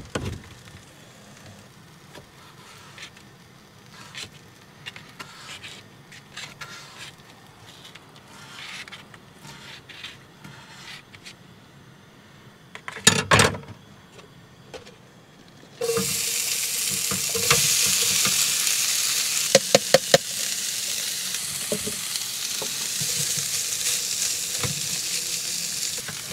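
Onion, pepper and steak mix dropped into a hot oiled skillet on a propane camp stove, sizzling loudly and steadily from about two-thirds of the way in, with a spatula clicking against the pan as it is stirred. Before that, only faint handling sounds and one short clatter about halfway in.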